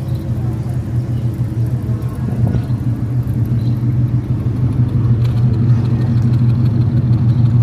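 Car engine running steadily with a low rumble, slowly growing louder.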